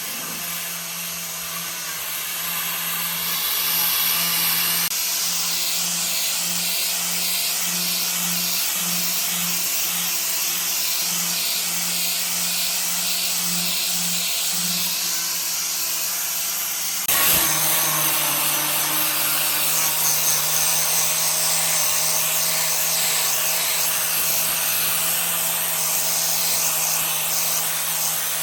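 An electric power tool running continuously, a steady motor hum under a harsh hiss. The sound changes abruptly about 17 seconds in, then carries on at a slightly higher level.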